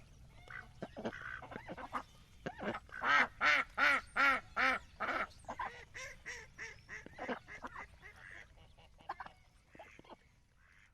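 Domestic ducks quacking: a run of about six loud quacks in quick succession a few seconds in, then softer, scattered quacks that fade toward the end.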